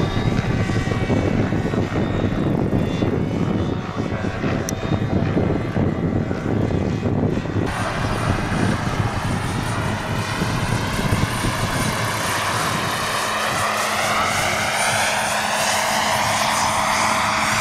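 Jet-turbine RC scale helicopter flying: a dense, fluctuating low rumble, then, after an abrupt change about eight seconds in, a steady high turbine whine and hiss with slowly sweeping tones as it moves past.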